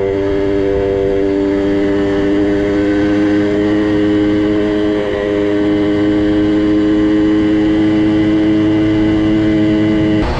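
Small two-stroke minibike engine running at a steady speed, its pitch dipping briefly about halfway, then cutting off abruptly near the end.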